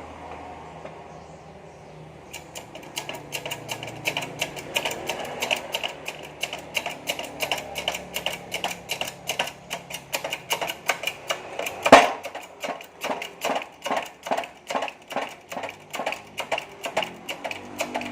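Rapid, regular sharp metallic clicks from a hand tool working on the crankshaft, about three a second, starting about two seconds in, with one much louder knock about midway.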